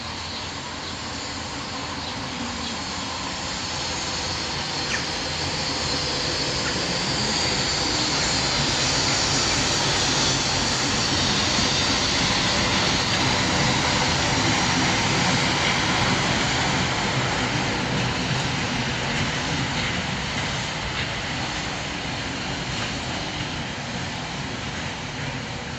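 ChME3 shunting diesel locomotive passing by, its six-cylinder diesel engine running. The sound swells to its loudest about halfway through and then slowly fades.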